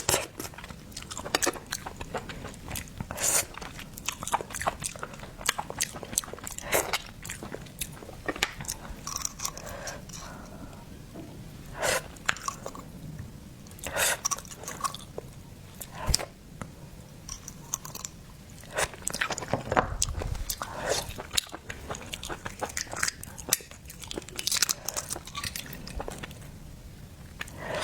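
A person chewing oysters close to the microphone: wet mouth clicks and smacks come in an irregular stream.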